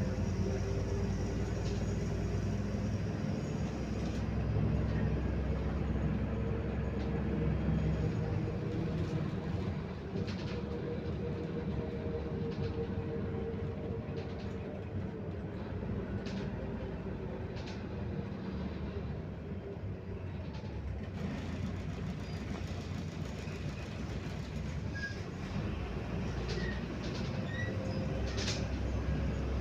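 Inside an articulated MAZ-105 city bus under way: a steady low engine and road rumble with a whine that slowly rises and falls as the bus changes speed, and scattered rattles and clicks from the body.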